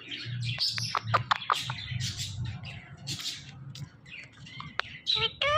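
Ringneck parrot chattering: a quick run of sharp clicks and short chirps, then scattered softer chatter, ending with a pitched call that rises and falls near the end.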